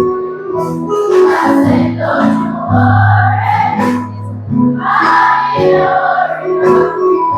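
Choir of children singing a song over a musical accompaniment with a strong bass.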